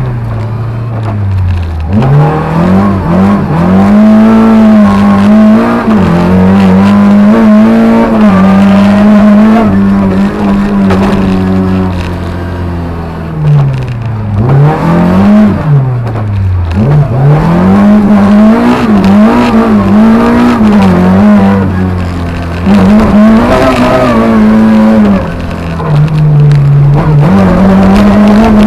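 Lada 2107 rally car's tuned 1.6 engine at full effort, heard from inside the cabin. It mostly holds a steady high note, and its pitch drops and climbs back several times: about two seconds in, around the middle, and near the end.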